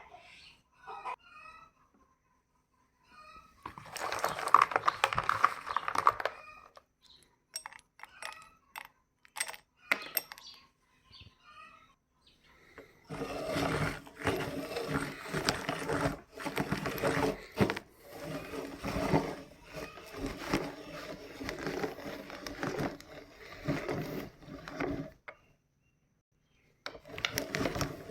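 Electric meat grinder crushing giant sticks of chalk: a steady motor hum under dense crackling and grinding that runs for about twelve seconds in the middle, stops, and starts again near the end. Before it come scattered knocks, clicks and short squeaks.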